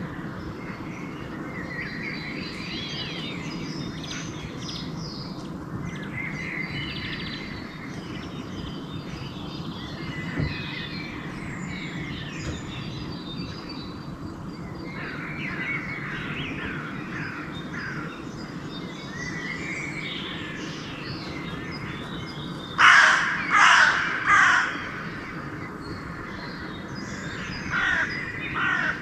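Dawn chorus of songbirds chirping and singing. A crow caws loudly three times about 23 seconds in, and twice more near the end.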